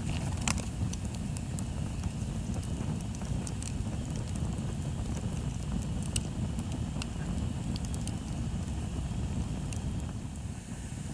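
Bonfire crackling, with sharp pops scattered irregularly over a steady low rumble.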